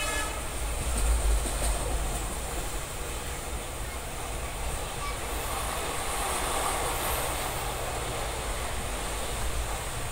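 Indian Railways passenger train running at speed, heard from inside the coach by the barred window: a steady low rumble of wheels on the track with rushing air. It swells louder about a second in, and the hiss rises again around six seconds in.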